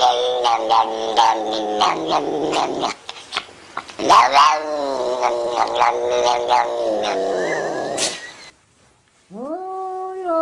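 A domestic cat yowling in long, drawn-out, wavering calls, two of them one after the other. After a brief pause near the end, another call starts, rising and then held with a wobble.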